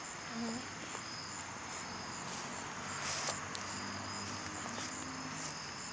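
Crickets chirping, a steady high-pitched chorus with no break.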